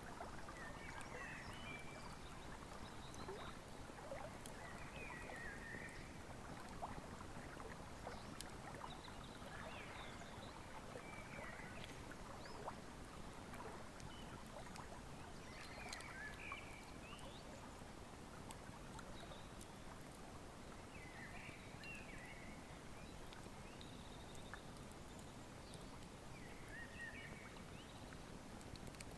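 Wood fire crackling with small scattered snaps over the steady rush of a flowing river, while a bird calls a short chirping phrase every few seconds.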